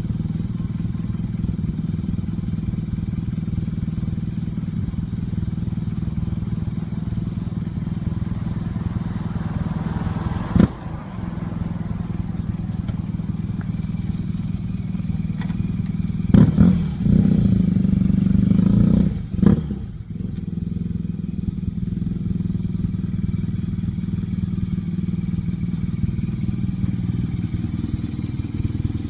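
BMW R nineT Racer's air/oil-cooled boxer twin running through a GPR aftermarket exhaust, idling steadily. There is a sharp blip about ten seconds in, and a short louder rev a little past midway before it settles back to idle.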